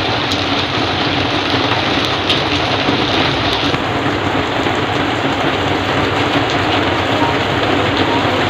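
Heavy rain falling steadily on surfaces, a dense, even hiss.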